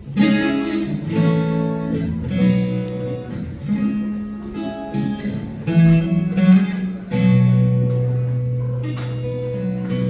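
Acoustic guitar playing the opening chords of a song, strummed chords that change every second or two, then a chord left ringing from about seven seconds in.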